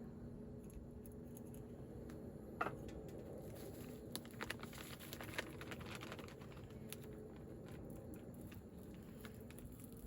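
Small clicks, taps and light rustling of objects being handled, busiest around the middle, with a short rising squeak early on, over a faint steady hum.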